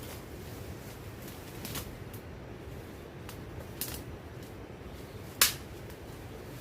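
A few scattered sharp clicks and snaps over a steady low background noise; the loudest snap comes about five seconds in.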